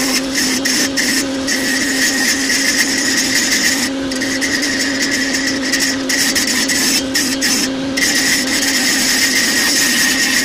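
An electric power tool running steadily on wood, a constant motor whine over a broad hiss, with short breaks in the high hiss now and then.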